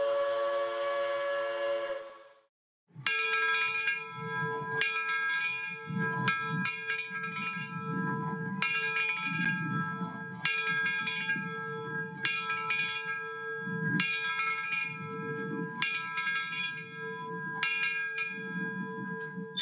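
Steam locomotive bell ringing repeatedly, roughly one strike a second and often in quick pairs, with a low rumble underneath. Before it, a steady locomotive whistle cuts off about two seconds in.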